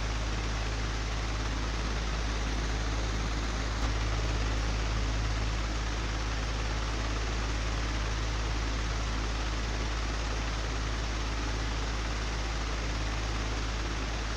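Old, broken electric fan running steadily: an even whooshing hiss over a low motor hum, with one small click about four seconds in.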